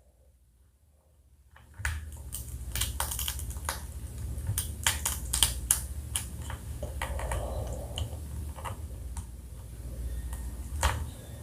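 Close-miked eating sounds of pickled blue crab: a run of sharp cracks, clicks and crunches, with wet chewing, starting about two seconds in.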